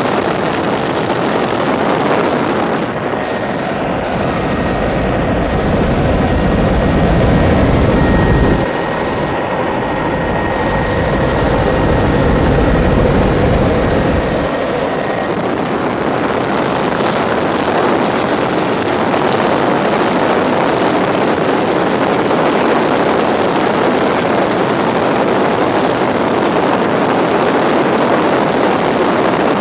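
Tour helicopter in flight: a steady, loud mix of engine and rotor noise. From about 3 to 14 seconds in the low end grows heavier and a faint high whine sits over it, then the sound settles back.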